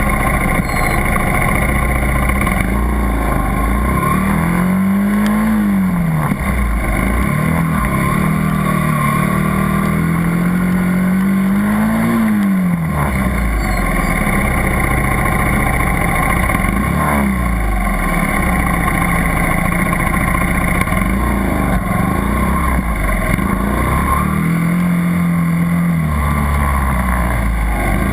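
80cc dirt bike engine running under changing throttle, its pitch rising and falling again and again as the rider speeds up and slows down.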